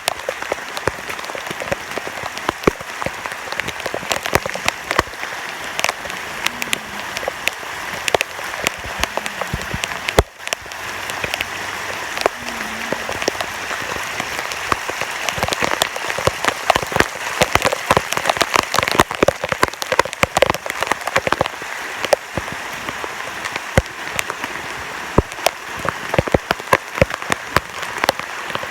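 Heavy, sustained rain falling on surfaces: a steady hiss thick with the sharp patter of individual drops, easing for a moment about ten seconds in.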